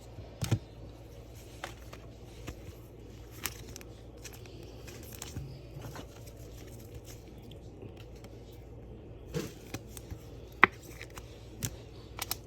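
Scattered light clicks and taps of cards and rigid plastic top loaders being handled on a table, the sharpest tap near the end, over a faint steady hum.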